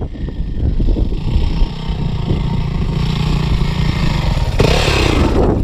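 Four-stroke dirt bike engine running close by, with a hiss that grows and turns suddenly louder near the end.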